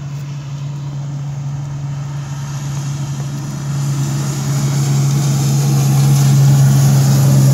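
A fire engine's Detroit Diesel engine runs loudly under way, a steady deep drone with a rough rasp above it. It grows louder from about halfway through as the truck draws nearer.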